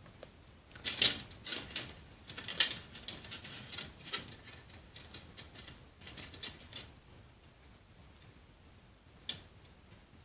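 Small wire and can parts of a homemade Stirling engine being handled and fitted together by hand: irregular light clicks and taps, several in the first seven seconds, then one sharper click near the end.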